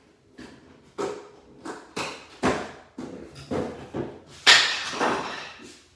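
Packaging and a cordless angle grinder being handled: a string of knocks, clunks and short scrapes or rustles, the loudest about four and a half seconds in, trailing off over about a second.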